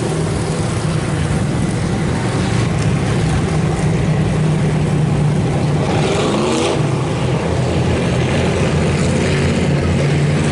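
A field of IMCA Hobby Stock race cars' engines running steadily as the pack circles the track.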